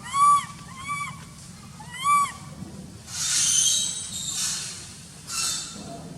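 Baby macaque crying: three short, arched, high calls in the first two seconds, then a longer hissing, noisy sound around the middle and a shorter one near the end.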